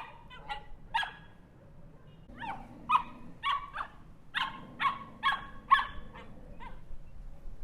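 Small dog barking in short, sharp, high-pitched yaps: a few near the start, then a quicker run of about eight barks, stopping about a second before the end.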